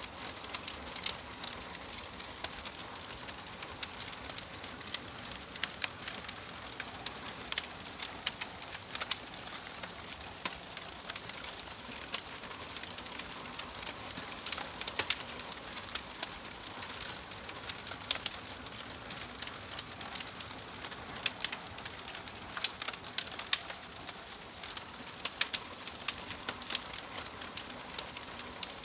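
Wood fire crackling in a fireplace: a steady soft hiss with irregular sharp pops and snaps, several every second.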